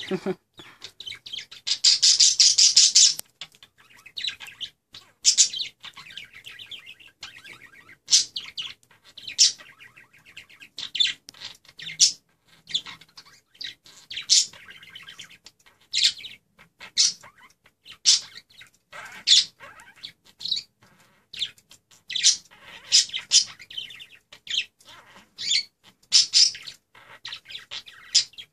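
Pet budgerigars chattering and warbling: a stream of short, sharp chirps, with one louder, longer warble about two seconds in.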